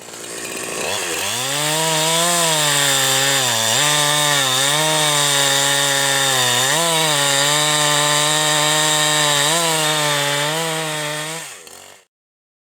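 Two-stroke chainsaw, a 372-class saw, running at high revs while cutting firewood. Its pitch climbs over the first couple of seconds, then dips briefly several times as the chain bites under load before recovering, and the sound cuts off sharply near the end.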